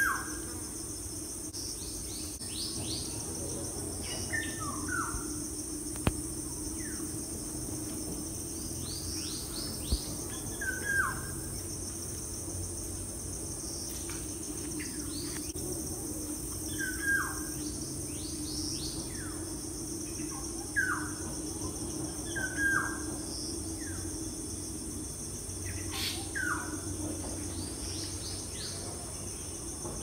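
Bird chirps: short calls that drop in pitch, coming every couple of seconds, sometimes two close together. Underneath runs a steady high-pitched buzz and a low hum.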